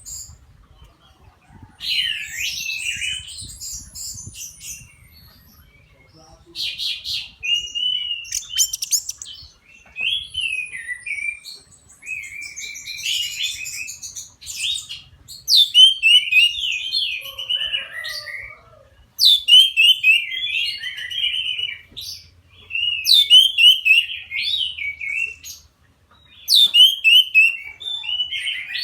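Young orange-headed thrush singing. Early on the phrases are varied and warbling. From about halfway it settles into a repeated phrase every 3 to 4 seconds: a sharp high note falling into a quick warble.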